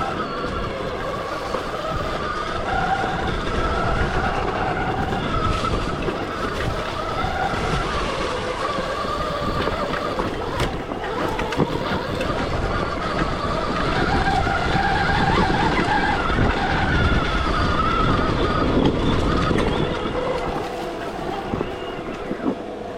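Stark Varg EX electric dirt bike riding off-road: the electric motor's whine rises and falls with the throttle over a steady rushing, rumbling noise.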